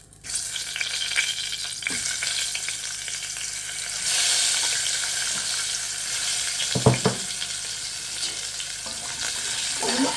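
Potatoes frying in hot oil in a pan, sizzling steadily. The sizzle starts suddenly just after the start and grows louder about four seconds in. A single utensil knock comes near the end.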